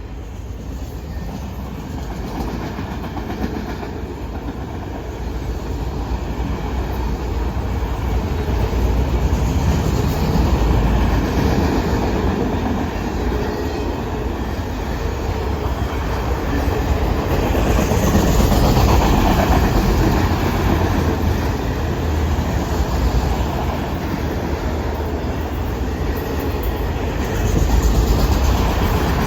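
Norfolk Southern manifest freight train rolling past at close range, its wheels clattering over the rail joints in a steady rumble that grows louder in the first several seconds and swells twice more.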